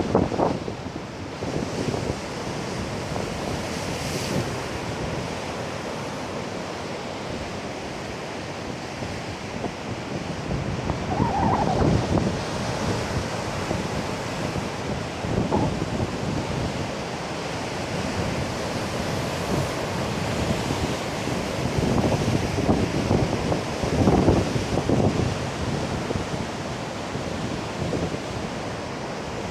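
Heavy typhoon-driven surf breaking on a beach, a continuous wash with several louder surges of breaking waves, the strongest late on. Wind is buffeting the microphone.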